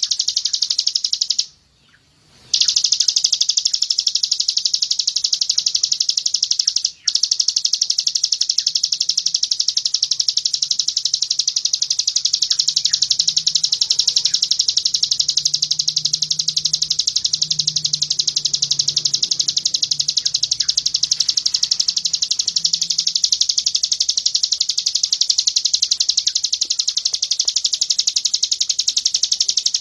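Songbird singing a continuous, very fast high-pitched trill of 'tembakan' (rapid-fire shooting) notes, as used in master recordings for white-eyes. It breaks off for about a second near the start and for an instant around seven seconds in.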